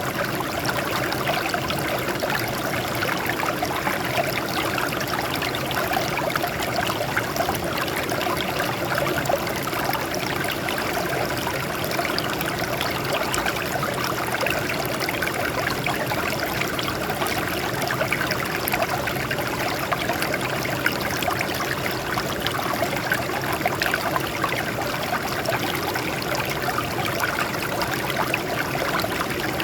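Water flowing steadily over rocks, a continuous splashing and trickling rush.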